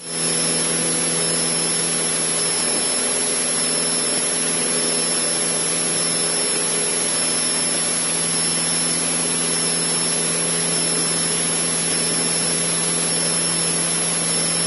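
Cessna 152's four-cylinder Lycoming engine and propeller running steadily at climb power, heard from inside the cockpit, with a thin steady high whine over it.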